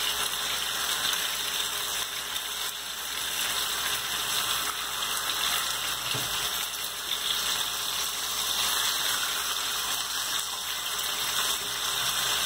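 Chicken breast fillets frying in hot oil in a pan, a steady sizzle.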